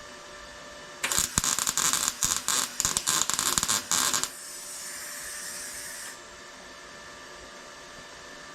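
Arc welder laying a tack weld on a torque converter's aligning pin: a loud, irregular crackle for about three seconds, then a softer hiss for about two seconds after the arc stops.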